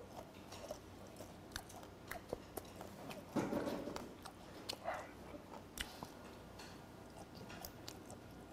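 Close-miked chewing of a mouthful of fermented skate (hongeo): soft, wet mouth clicks and crunches scattered throughout. A short, louder breathy puff comes about three and a half seconds in.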